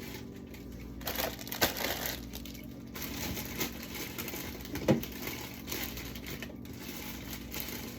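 Food containers and packaging being handled and set on fridge shelves: scattered short knocks and rustling, with a sharper knock about five seconds in, over a steady low hum.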